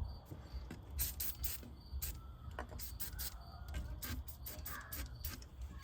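Aerosol can of PB Blaster penetrating oil spraying in many short hissing spurts onto a seized control arm bolt to free it.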